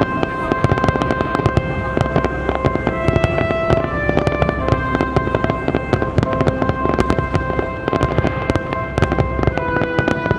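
Fireworks finale: many shells going off in rapid succession, a dense unbroken run of bangs and crackles, with music playing underneath.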